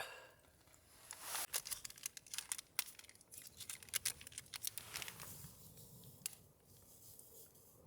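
Plastic or paper packaging being handled and torn open, a dense run of sharp crinkles and crackles for a few seconds that then dies down.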